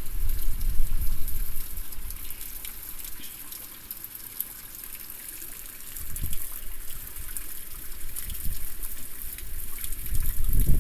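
Typhoon rain and wind: a steady hiss of rain, with gusts buffeting the phone's microphone as low rumbles, strongest in the first two seconds and again about six seconds in.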